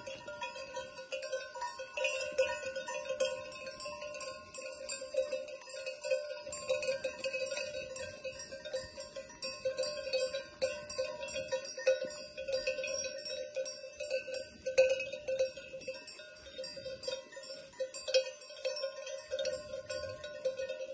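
Many bells on a flock of sheep clanking and jangling continuously, dozens of overlapping metallic rings.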